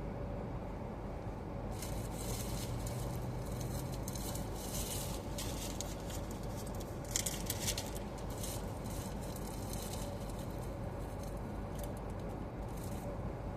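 Steady in-car driving noise: engine, tyres and the air-conditioning fan blowing. Over it come irregular scratchy crackles from about two seconds in until near the end, the loudest about halfway through.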